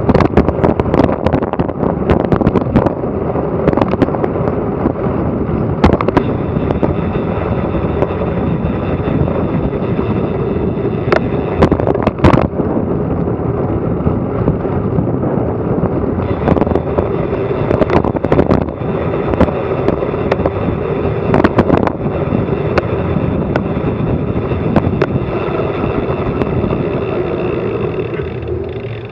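Wind buffeting and road rumble picked up by an action camera's microphone on a fast bicycle descent, broken by frequent sharp knocks and rattles from bumps in the road. The noise eases off near the end.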